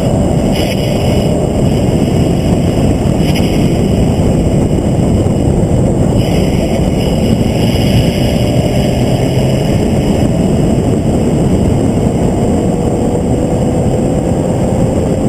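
Vehicle at speed on a race track, heard from onboard: steady loud wind and road noise over the engine, whose note climbs slowly near the end.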